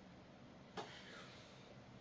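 A single sharp click about a second in, followed by a faint short scrape, from a Leatherman SIGNAL multitool being worked while it is oiled and cleaned; otherwise near silence.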